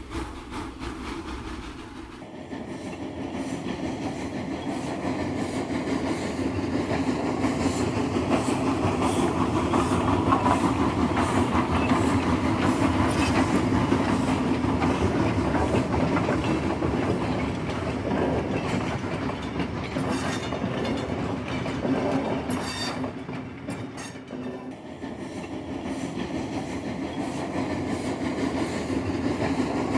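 A train running on rails, its wheels clicking rhythmically over the rail joints. The sound comes in about two seconds in, swells, dips briefly near the end and builds again.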